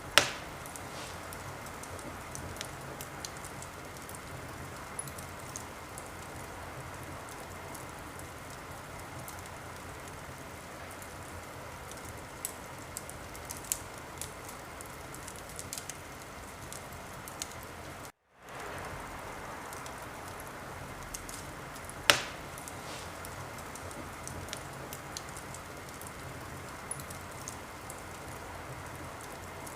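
Wood fire in a fireplace crackling steadily, with scattered small snaps and two loud sharp pops, one at the very start and one about three-quarters of the way through. The sound drops out for a moment a little past halfway.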